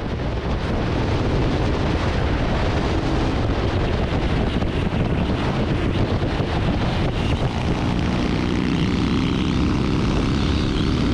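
Motorcycle running at speed, engine drone mixed with heavy wind rush, holding steady and loud.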